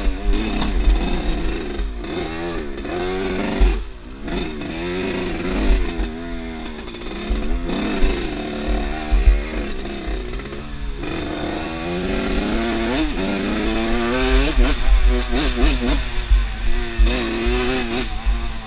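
Off-road motorcycle engine revving up and down repeatedly as it is ridden over rough ground, with wind buffeting the microphone.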